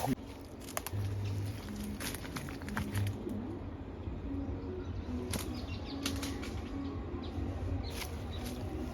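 Forest ambience: low, repeated dove-like coos from birds, with scattered crackles and snaps of twigs and leaves underfoot.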